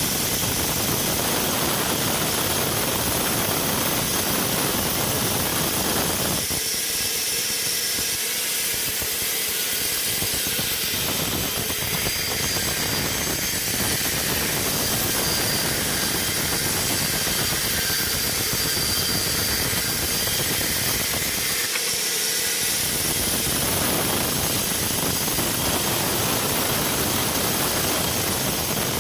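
Sawmill running, a loud steady mechanical noise with a strong hiss; its deeper part drops away twice, about seven and twenty-two seconds in, then comes back.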